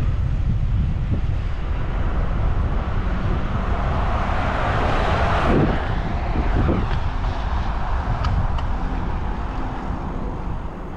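Wind noise on the microphone of a moving bicycle, with a car passing: a rush that swells and fades, loudest about five seconds in.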